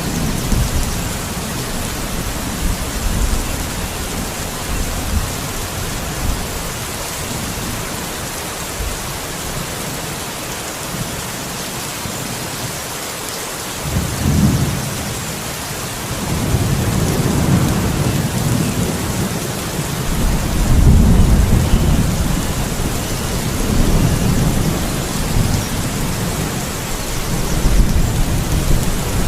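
Steady rain hiss with thunder rumbling low, fainter in the first half and swelling into several long rolls from about halfway through.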